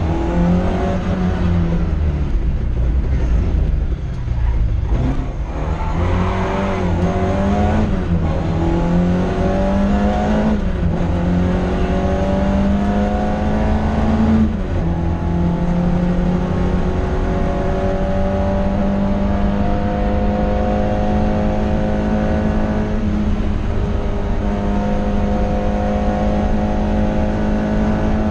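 Ford Escort RS2000 rally car's four-cylinder engine, heard from inside the cabin, driven hard. Its pitch climbs and drops back about four times in the first half, then holds at high revs, slowly rising, through the second half.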